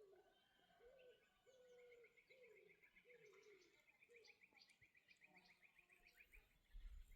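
Faint birdsong: a bird repeats low, cooing notes about twice a second for the first few seconds, while another bird sings a fast, high trill through the middle. A brief low thump comes near the end.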